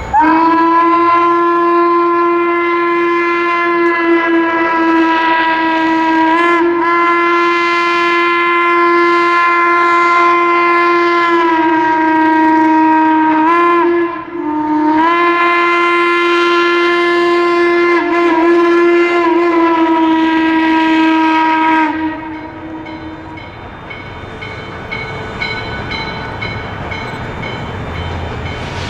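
Steam whistle of Chesapeake & Ohio 2-6-6-2 Mallet No. 1309 blowing two long blasts: the first lasts about fourteen seconds, and after a brief break a second runs about eight more seconds. After that the train is heard running more quietly, with a faint regular ticking.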